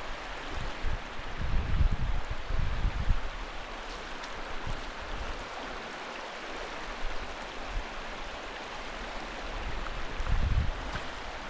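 Steady rush of flowing river water, with a few low rumbles about a couple of seconds in and again near the end.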